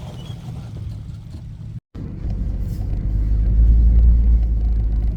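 Pickup truck driving, a steady low rumble of engine and road noise. The sound drops out completely for a moment about two seconds in, and the rumble is louder after it.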